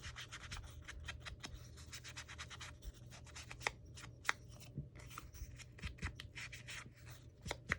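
Paper being handled and worked at a craft table: quick rubbing and scratching strokes, with a few sharper clicks about halfway through and near the end.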